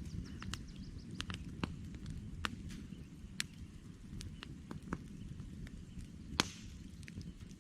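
Wood campfire crackling: irregular sharp pops and snaps over a low steady rumble, with the loudest pop about six seconds in.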